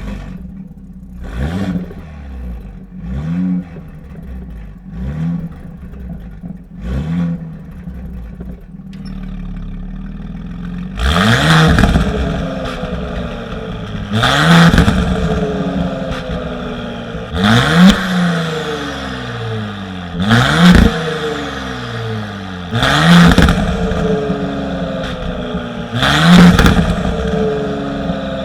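Porsche Cayenne's EA839 turbocharged V6 through a Stone turbo-back exhaust with valved cat-back, revved in short blips. There are four milder revs with the exhaust valves closed, a brief idle, then about eleven seconds in, six much louder revs with the valves open.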